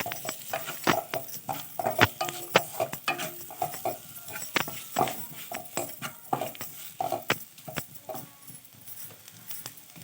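A metal spoon scraping and clicking against a kadai in irregular strokes, several a second, as onions and ground spices are stirred over a low flame, with a light sizzle underneath. The strokes thin out near the end.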